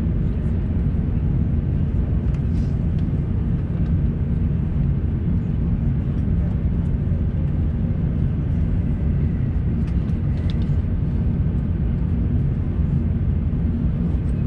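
Steady low rumble of an Airbus A350-900's cabin noise heard from a window seat, with a few faint clicks about ten seconds in.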